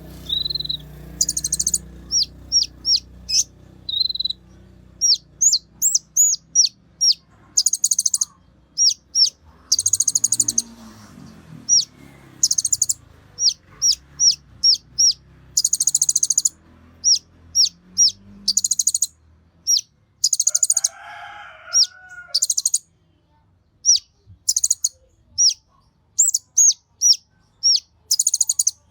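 Konin bird singing an excited song: sharp high chirps repeated in quick runs, alternating with bursts of fast, buzzy trills. A brief lower call is heard about two-thirds of the way in.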